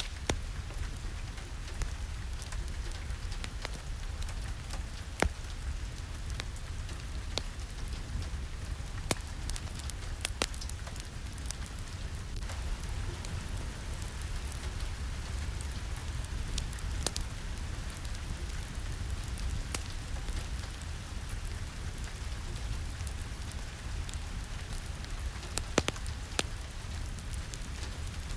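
Steady rain with a deep rumble underneath, and scattered sharp crackles and pops from a wood fire in a fireplace.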